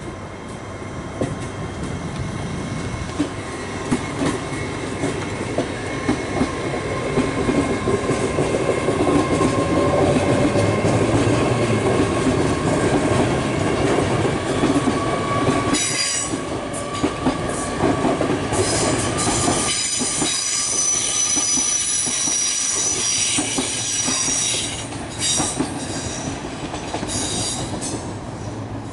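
GWR Hitachi Class 800 train (unit 800 306) running past, wheels clicking over the rail joints. From about halfway in, high-pitched wheel squeal rings out over the rumble.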